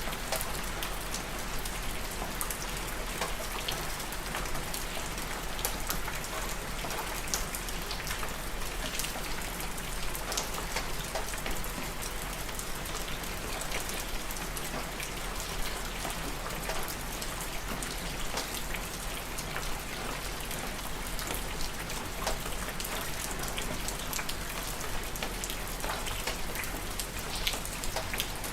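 Steady rain falling, with the patter of separate drops striking a surface.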